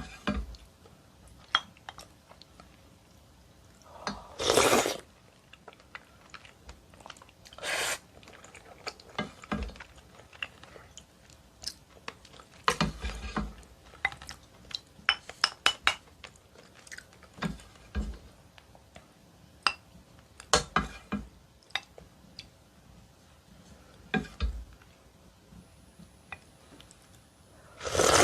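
Close-miked eating of seaweed and oyster soup: a spoon clinking against the bowl and wet chewing. Scattered small clicks come between louder bursts a few seconds apart.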